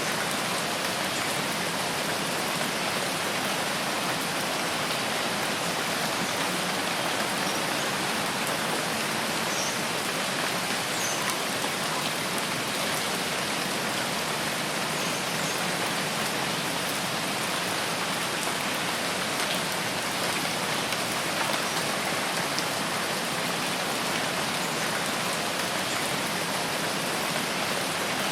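Steady rain falling in an even, unbroken hiss of many drops on leaves and ground.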